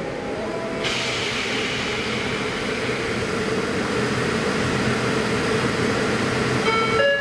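Circumvesuviana electric commuter train running on the rails, a steady rumble that turns suddenly brighter and hissier about a second in.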